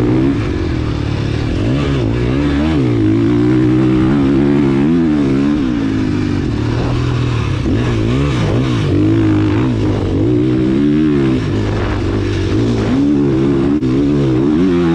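Motocross dirt bike engine revving as it is ridden, the pitch climbing and dropping again and again with throttle and gear changes.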